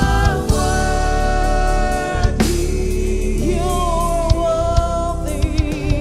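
Gospel worship music: voices holding long sung notes over a live band with drum kit.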